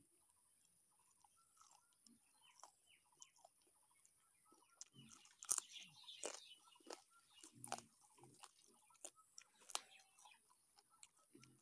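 Close-up eating sounds: biting into and chewing fried chicken leg, with crunchy bites and wet mouth clicks. The first few seconds are nearly silent; the biting and chewing start about five seconds in and are loudest there.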